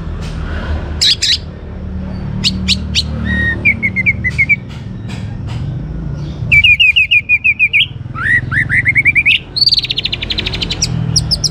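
Orange-headed thrush singing a varied, fast song: sharp high notes, quick runs of repeated chirps, and a loud rapid series of notes about halfway through followed by a run of rising notes. A steady low hum sits underneath.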